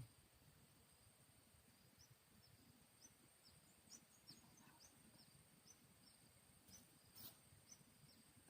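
Near silence: faint rural ambience with a steady high insect whine and a run of short, high chirps, about two a second, plus one faint click near the end.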